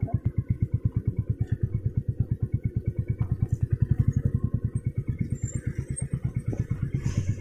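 Royal Enfield Classic 350's single-cylinder engine running at low speed, with steady, evenly spaced exhaust beats.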